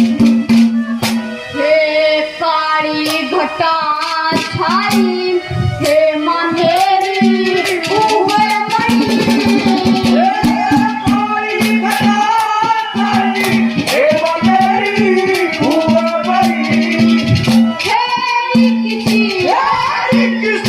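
Live Haryanvi ragni: a sung melody over a steady held drone note and dense, rhythmic percussion clicks.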